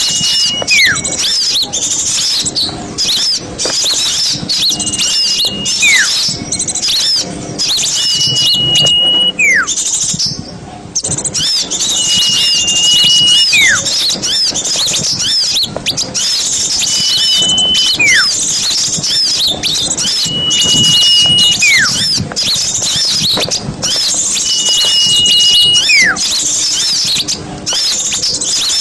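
A chorus of small birds chattering densely in high, rapid calls, used as a lure for wild birds. Over it a clear whistle repeats about seven times, each a level note followed by a quick downward slur.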